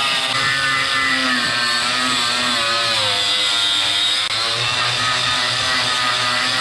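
Handheld power tool running continuously while cleaning rust off a steel mower deck. Its pitch sags and recovers as it is pressed against the metal, with a steady hiss on top.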